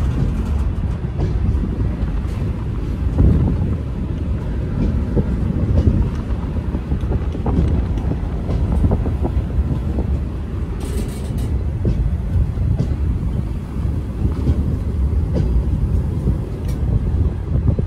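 Freight train of open-top gondola wagons rolling slowly past close by: a steady low rumble of steel wheels on the rails, with scattered knocks and clanks from the bogies and couplings.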